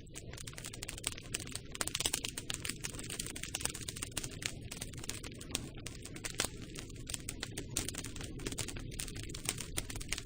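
Campfire crackling: dense, irregular snaps and pops of burning wood over a steady low rumble.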